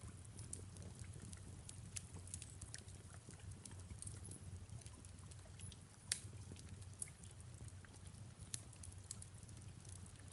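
Crackling fireplace: irregular sharp pops and snaps of burning wood over a low steady rumble of the fire, with a faint hiss of soft rain; one louder crack about six seconds in.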